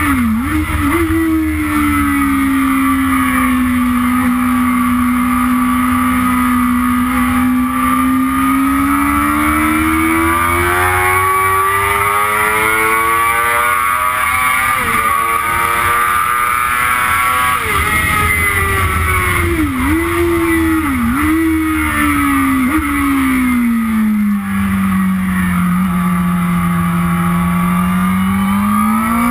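Yamaha YZF-R6 inline-four engine on track, heard from on the bike, its pitch rising and falling with the throttle through the corners. Several quick dips in pitch mark gear changes, three of them close together about two-thirds of the way through.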